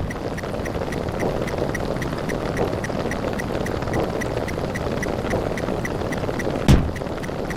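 A dense, continuous pile-up of overlapping cartoon and meme sound effects fired off rapid-fire, with a regular tick about five or six times a second. A heavy low boom lands right at the start and another near the end.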